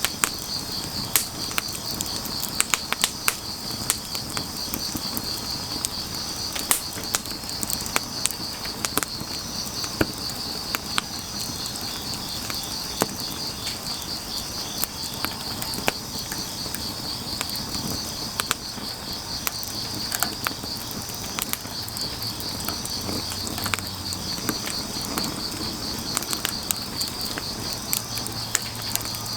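Wood fire crackling, with irregular sharp pops from the burning firewood. Under it runs the steady, rapidly pulsing high chirr of crickets.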